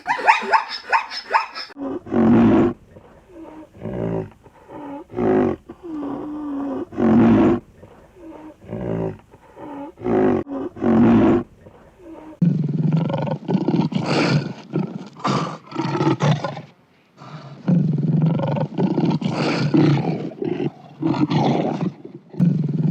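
Leopard calling in a run of repeated deep grunts, spaced apart at first and coming thick and fast from about halfway on, after a brief high whine at the start.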